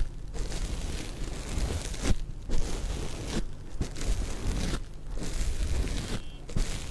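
Stones rubbed together in close-up, a rough scraping and grinding in long strokes broken by short pauses about every one to one and a half seconds.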